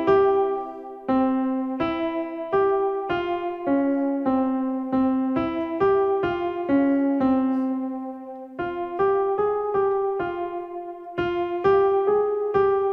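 Casio digital keyboard playing an acoustic piano tone: a slow melody of struck notes, about two a second, each decaying, with one note held longer past the middle.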